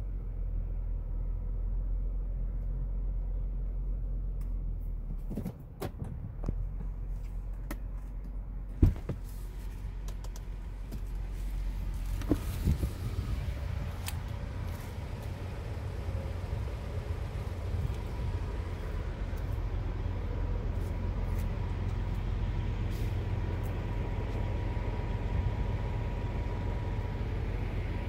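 2020 Kia Cadenza's 3.3-litre V6 idling on remote start: a steady low hum, heard first inside the cabin and then outside the car. A car door is opened with a few clicks and shut with a sharp thump about nine seconds in.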